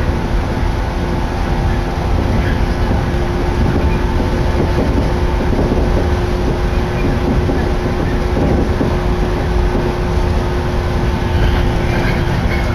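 Electric commuter train running at speed, heard from inside the passenger car: a steady, loud rumble of the wheels and running gear, with a steady hum.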